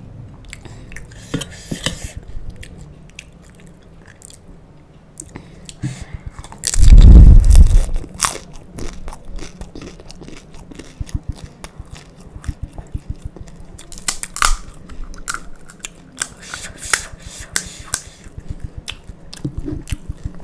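Close-miked chewing of panipuri, the crisp fried puri shells crackling and crunching between the teeth in many small clicks. There is one loud, deep crunch about seven seconds in as a whole puri is bitten.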